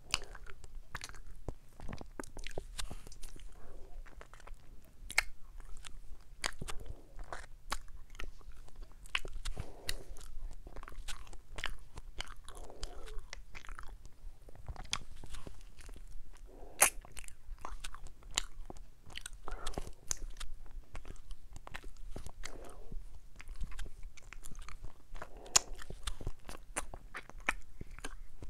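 A person biting into and chewing an ice cream sandwich close to the microphone. Irregular crisp crunches of the wafer run through it, with softer chewing sounds between them.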